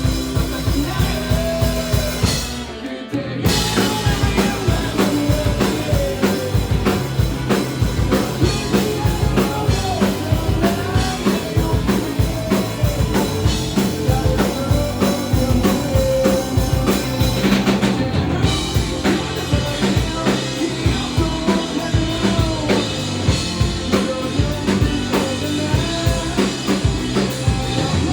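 Live punk rock band playing an instrumental stretch of a song, with a fast steady drum-kit beat under wavering melodic lines. About three seconds in the band cuts out briefly, then comes crashing back in.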